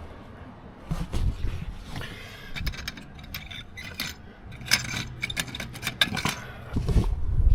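Scattered clicks, scrapes and light clattering of someone climbing and moving about on the wrecked boat's deck among strewn gear, with a low rumble building near the end.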